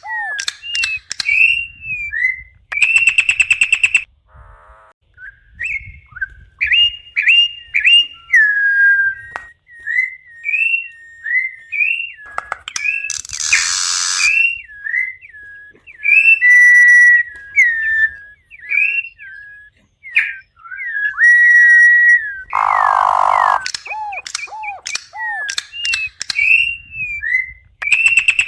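Campo troupial (corrupião) singing: a long run of clear whistled notes that glide up and down in pitch, broken by a few short harsh, raspy bursts.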